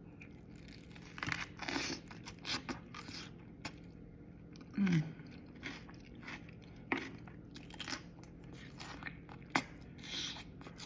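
Bites and close-miked chewing of raw cucumber boats, with irregular crisp crunches. A short hummed "mm" comes about five seconds in.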